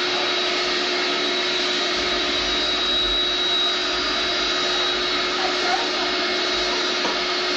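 Vacuum cleaner running steadily: an even rushing motor noise with a constant hum and a high whine.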